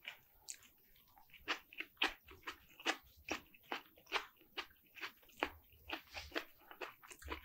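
Close-miked chewing of a mouthful of smoked turkey with sliced onion: short, wet clicking mouth sounds, about two to three a second, starting about a second and a half in.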